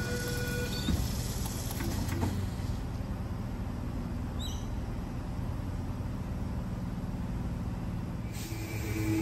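Electric suburban train rumbling low and steady at the station, with a couple of knocks in the first few seconds and a short high chirp about four and a half seconds in. Near the end a new, rising sound with a steady hum sets in.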